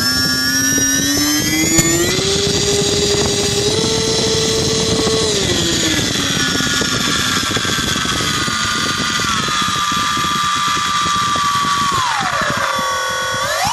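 Turnigy D2836/8 1100kv brushless motor running on throttle, a whine that climbs in pitch over the first few seconds, drops back, holds steady, then falls and rises again near the end. A rough rattle runs under the whine, the noise of a bad bearing that is heard most when the throttle is backed off.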